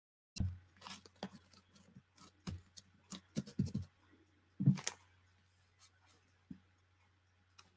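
Paper and craft materials being handled on a tabletop: an irregular run of light taps, clicks and rustles, the loudest about four and a half seconds in, over a faint steady low hum.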